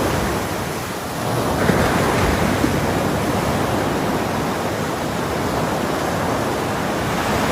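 Ocean surf: waves breaking and washing in a steady rush of water, easing off about a second in and swelling again with the next wave.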